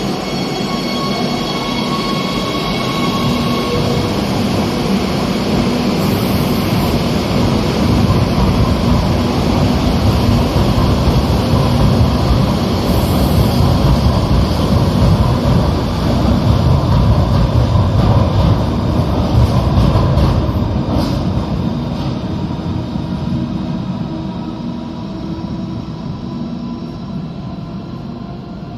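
Madrid Metro train running through the station, with a steady whine from its motors over the rumble of the wheels. It is loudest in the middle and fades away over the last several seconds.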